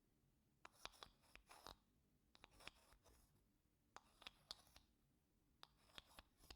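Wooden spoon scraping across wooden blocks: faint, short scratchy strokes in four brief clusters, about one every second and a half.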